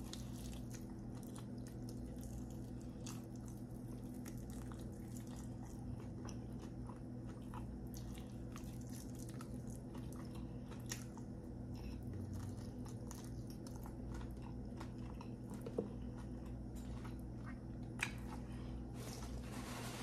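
Close-miked chewing of sauce-glazed fried chicken: soft crunches and wet mouth clicks over a steady low hum, with a few sharper clicks in the second half.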